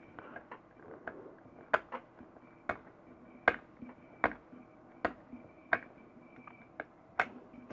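Sharp little clicks and ticks, about one or two a second and uneven, of a small tool picking and prying an LED chip off an LED bulb's circuit board.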